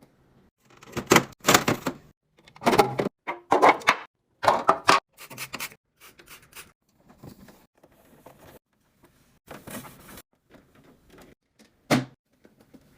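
Containers and packaging being handled and set into a refrigerator: a run of knocks, clatters and rustles, densest and loudest in the first five seconds, then lighter handling, with one last sharp knock near the end.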